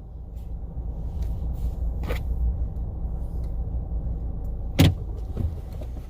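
Car running with a steady low rumble, a light click about two seconds in and a sharp clunk near the end.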